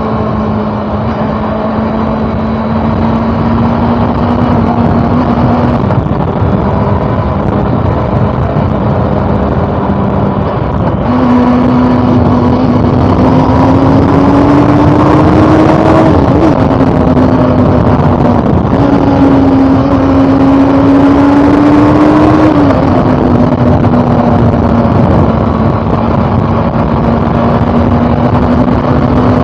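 Honda CB400 Super Four inline-four engine running on the road, over a steady rushing noise. It cruises at a steady pitch, then twice climbs in pitch under acceleration and drops suddenly, like an upshift, before settling back to a steady cruise.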